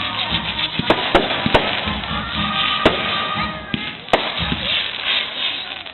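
Fireworks going off: about five sharp bangs at uneven intervals over a steady crackling, with background music.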